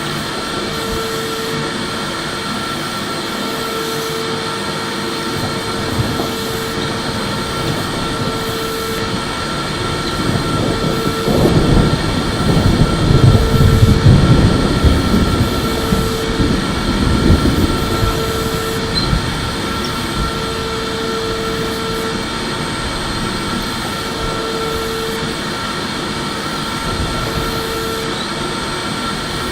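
Electric vacuum cleaner running steadily with a high whine. About a third of the way in it grows louder and rumbles low for several seconds, then settles back to its steady run.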